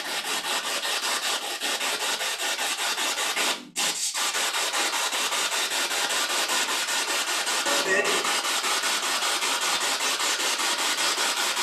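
Spirit box, a radio scanner sweeping through stations, hissing with static in rapid even pulses, several a second, as it skips from station to station. It drops out for a moment near four seconds in, and a brief snatch of broadcast sound breaks through about eight seconds in.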